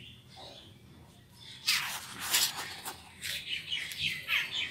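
Small birds chirping in quick, repeated falling notes after a quiet start, with two louder, harsh noisy sounds about two seconds in.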